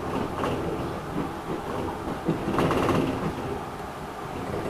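Enshu Railway 2000-series electric train running, heard from inside the front car: steady running noise with the wheels clacking over rail joints, and a louder clatter about two and a half seconds in.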